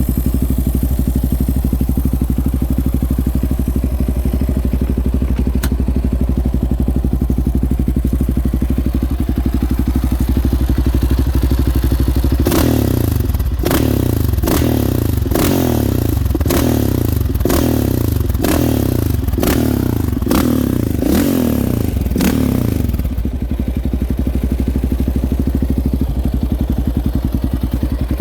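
Yamaha Raptor 700R's single-cylinder four-stroke engine through a Curtis Sparks aftermarket exhaust, idling steadily. Partway through it is revved in a quick series of about a dozen throttle blips, each rising and falling, then settles back to idle.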